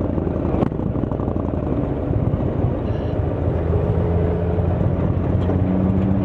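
Indian Chieftain's Thunderstroke V-twin running through a Freedom Performance exhaust while the motorcycle is ridden. The engine note steadies into a held pitch about halfway through, with a single click about a second in.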